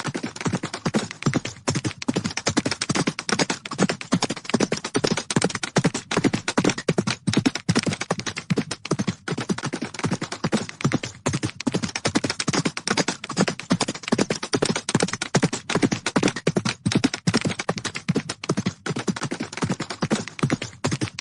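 Horses galloping: a fast, unbroken run of hoof beats that carries on at an even level throughout.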